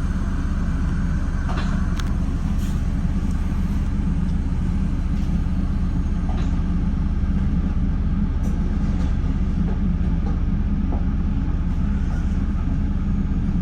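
Steady low rumble and hum of a stopped Metra bi-level commuter train, heard from inside the front car, with a few faint clicks.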